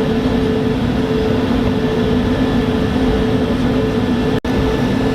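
Steady cabin hum inside an Airbus A220 airliner, engines and air conditioning running, with two steady low droning tones. The sound cuts out for an instant near the end.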